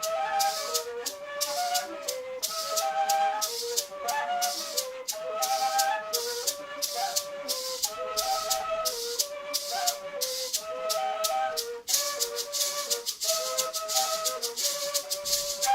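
Colombian gaita flute playing short repeating melodic phrases over a steady maraca shaking rhythm, as in traditional gaita music.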